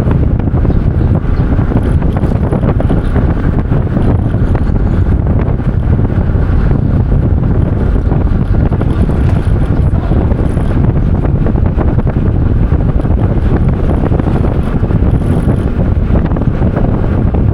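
Wind buffeting the microphone: a loud, steady low rumble of noise.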